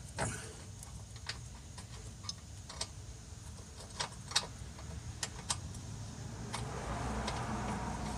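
Scattered light metallic clicks and taps of a 12mm bolt and hand tools being worked into a sway bar bushing bracket under the car. A soft scraping rustle builds up over the last second or two.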